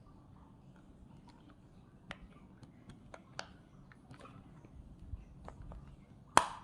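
Small plastic parts of a Bluetooth headset being handled and fitted together: scattered light clicks and taps, with one sharp, louder click near the end.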